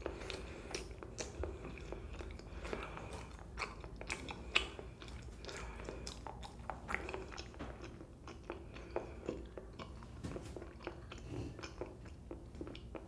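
A person chewing chewy green grape Kyoho jelly, with irregular small wet clicks and smacks from the mouth.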